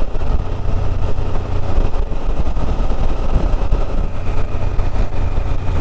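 Motorcycle running steadily at road speed, its low engine hum under a constant rush of wind and road noise.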